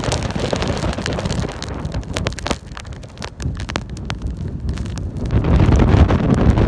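Wind buffeting the microphone: a heavy low rumble, with scattered sharp clicks and knocks. It dips briefly about two and a half seconds in and is loudest from about five seconds in.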